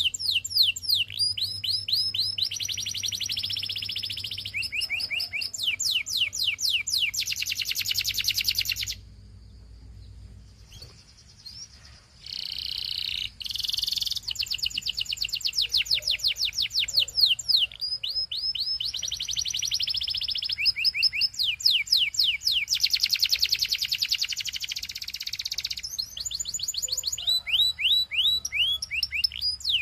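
Belgian canary singing in fast trills of rapidly repeated, downward-sweeping whistled notes alternating with buzzy rolls. The song breaks off for about three seconds near the middle, then resumes.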